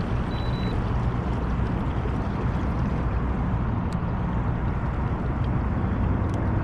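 Boat motor running steadily on the water, a low, even drone.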